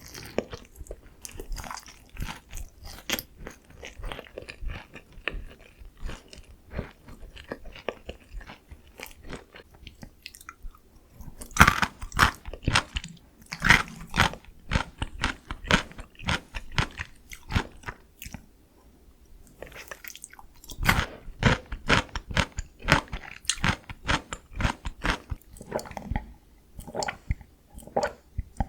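Close-up crunching and chewing of sweet soy-glazed Korean fried chicken (dakgangjeong): crisp bites cracking through the coating in bursts, with short pauses between mouthfuls.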